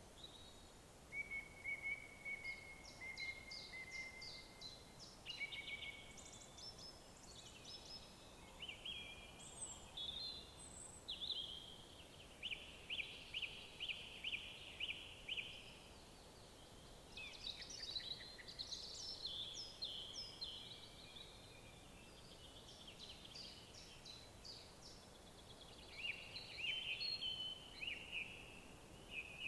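Several small songbirds singing in woodland, with overlapping phrases of whistles, chirps and fast trills, one a rapid run of repeated notes lasting a few seconds, over a faint steady background hiss.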